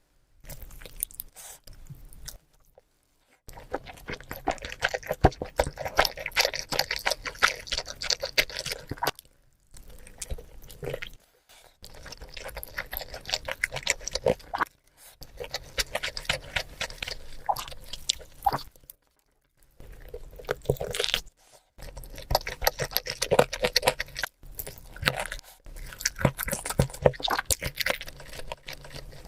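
Close-miked chewing of rice and grilled chicken, with crunching and wet mouth sounds in stretches of several seconds broken by short pauses.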